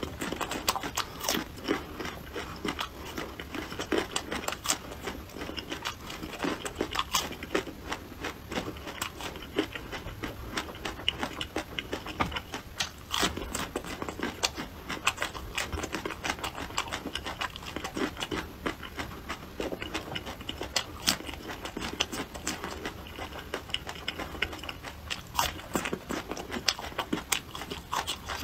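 A person biting and chewing raw shallots, with frequent short, crisp crunches throughout.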